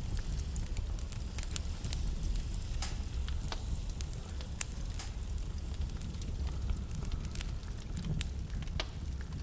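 Wood fire burning in a fireplace: a steady low rumble of the flames with irregular sharp crackles and pops from the burning logs, a few louder snaps among them.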